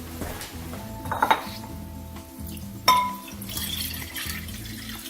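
Glassware or containers handled for mixing lye solution: a ringing clink about a second in and a sharper clink with a short ring near three seconds, followed by a brief rush of liquid, over steady background music.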